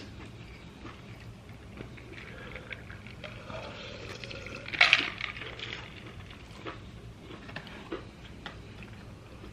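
Close-mic eating sounds: wet chewing with small mouth clicks, and a louder wet smack or slurp about five seconds in.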